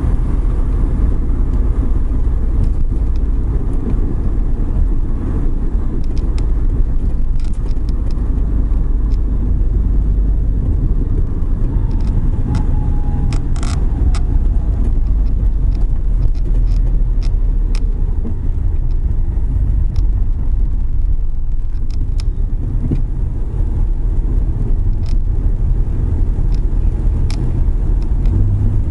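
Suzuki Every Wagon kei van driving on a wet road: a steady low rumble of engine and tyres, with scattered light ticks and one sharper click about halfway through.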